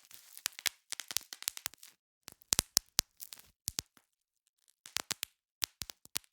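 Bubble wrap being popped, with quick irregular runs of sharp pops and crackles and a short pause of about a second after the middle.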